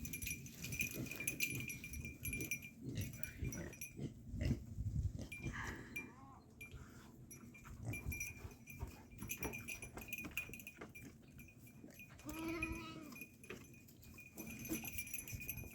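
Goats bleating: a fainter call about six seconds in and a clearer, wavering bleat near the end, amid low shuffling noises from the animals moving about.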